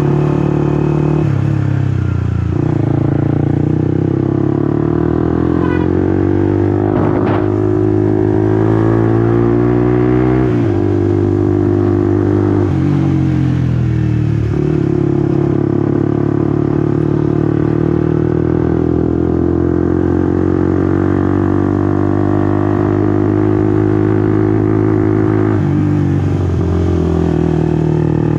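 Honda CBR150R's single-cylinder engine heard while riding, its pitch climbing steadily for several seconds under acceleration. It drops sharply about ten seconds in and again a few seconds later, then holds steady while cruising. There is a brief click about seven seconds in.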